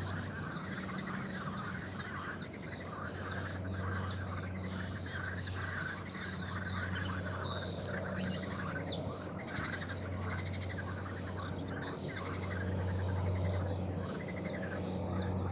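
Many small birds chirping and singing in a busy, overlapping chorus over a steady low hum.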